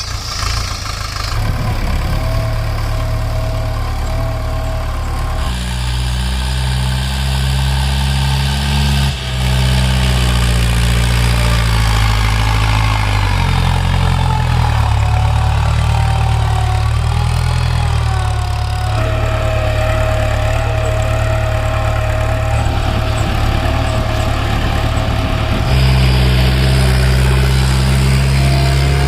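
Balwan 500 tractor's diesel engine running while pulling a five-tine cultivator, its engine note shifting up and down several times as the load changes.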